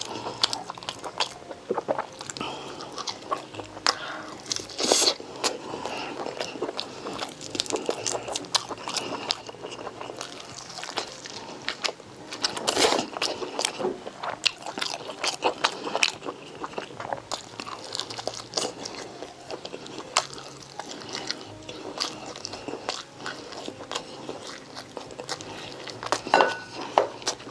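Close-miked eating: steady chewing and biting with wet crackles and smacks, a few louder bites standing out.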